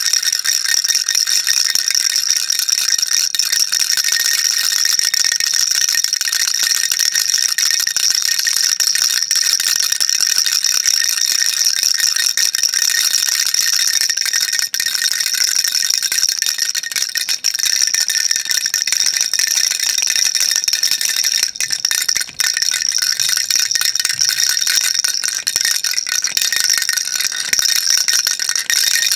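Baby rattle shaken continuously: a dense, steady, high-pitched rattling of small beads, broken only by a few brief dips.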